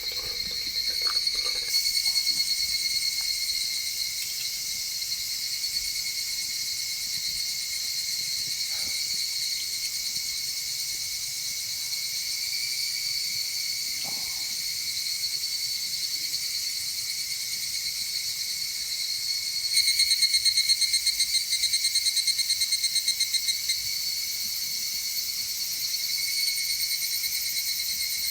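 Steady chorus of insects, a continuous high-pitched trilling, with a louder, rapidly pulsing caller joining about two-thirds of the way through.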